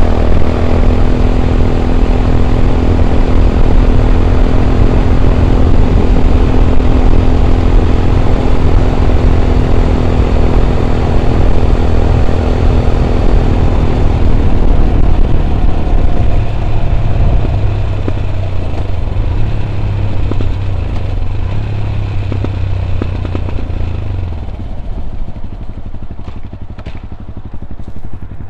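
Yamaha WR 125 X's single-cylinder four-stroke engine through an Arrow exhaust with dB killer, running at steady revs while riding. About halfway through it eases off, and it gets quieter again toward the end as the bike slows.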